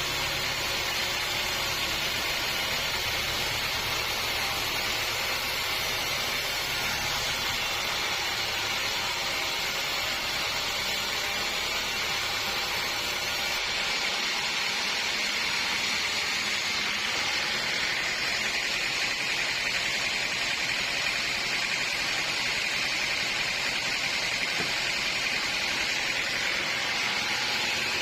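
Sawmill saw running through a log with a steady hiss-like noise; about halfway through the low hum drops out suddenly and the sound shifts higher.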